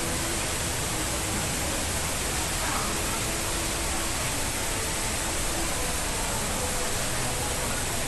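The HSBC Rain Vortex, a 40-metre indoor waterfall, pouring down: a steady, even rush of falling water, with faint chatter of people underneath.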